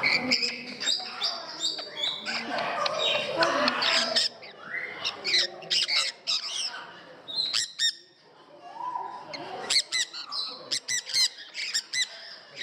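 Parrots squawking and chirping: harsh, noisy calls at first, then a run of many short, sharp high-pitched chirps after a brief lull, with people's voices mixed in.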